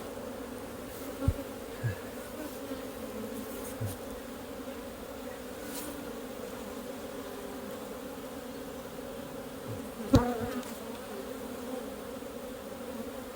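Honey bees buzzing steadily around an opened hive, a continuous low hum. A few short knocks sound over it, the loudest about ten seconds in.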